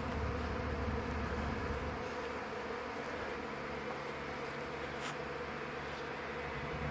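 A honeybee swarm of thousands of bees buzzing steadily in the air as it gathers and settles onto a tree branch.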